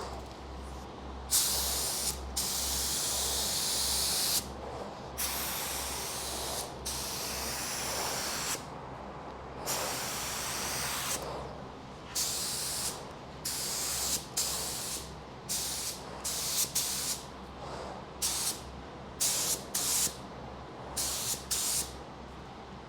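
Compressed-air spray gun hissing in trigger pulls. The early passes last one to three seconds; later they come in shorter, quicker bursts.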